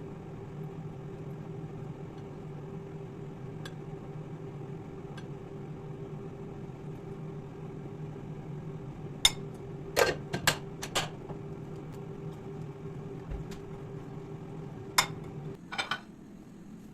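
A running appliance motor hums steadily. Sharp clicks and knocks come a few times partway through and near the end, and the hum cuts off shortly before the end.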